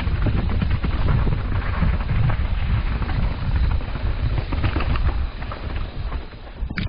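Mountain bike rolling down a rough trail: wind rumble on the camera microphone and a steady rattle and clatter of the bike over the ground, easing off about five seconds in. A brief high squeak near the end.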